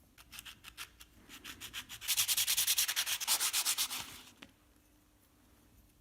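Sandpaper rubbed rapidly back and forth on a small wooden part, the strokes growing louder about two seconds in and stopping about four and a half seconds in.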